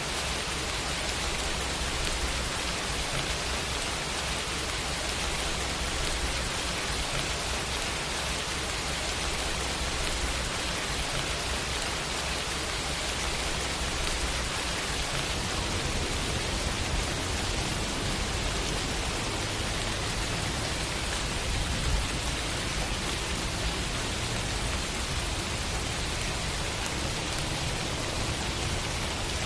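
Steady rain falling on hard surfaces, an even hiss. A low rumble underneath grows stronger about halfway through.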